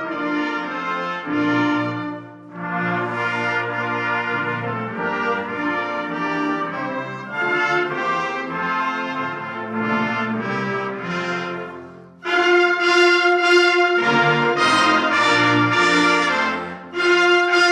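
Concert band playing with the brass to the fore: held, phrased notes, breaking briefly about 12 seconds in and coming back louder and fuller.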